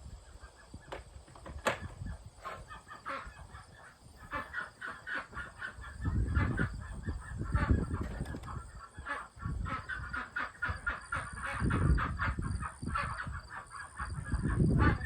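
Several ducks quacking in quick, overlapping calls, sparse at first and thickening into a steady chatter about four seconds in. Low rumbling noise swells up a few times underneath.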